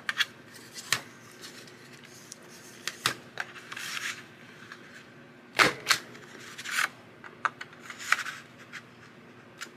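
Paper being handled and creased by hand: scattered light taps and clicks with short rustles, the sharpest about halfway through.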